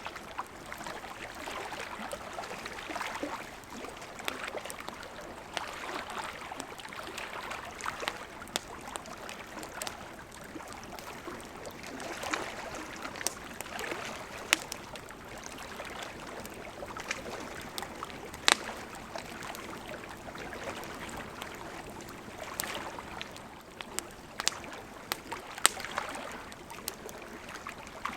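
Wood campfire crackling, with sharp pops at irregular intervals and a few much louder snaps, over a steady wash of lake water lapping at the shore.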